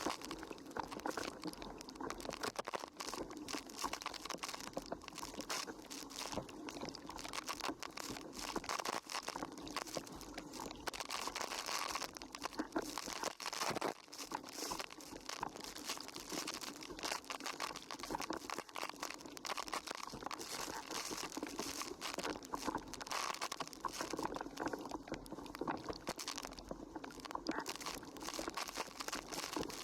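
Wind buffeting and water rushing past an action camera's waterproof housing while windsurfing, heard as a muffled, crackling rush that never lets up.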